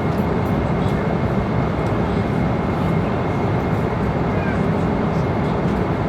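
Steady cabin noise inside a jet airliner in flight: an even, loud roar of engine and airflow noise, heaviest in the low end, with a faint steady high tone running through it.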